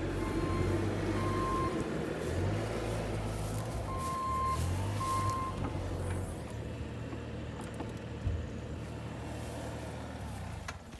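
A vehicle engine running low and steady, with a one-pitched electronic beep sounding on and off through the first five seconds; the engine fades in the second half.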